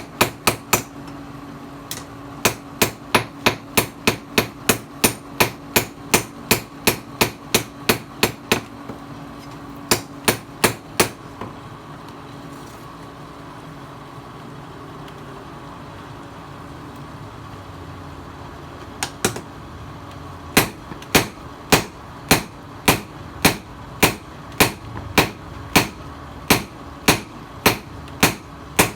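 Hand hammer striking steel on an anvil in steady runs of blows, two to three a second, as a tiller blade is forged into a knife. The blows stop for about eight seconds in the middle, leaving a steady hum, then start again.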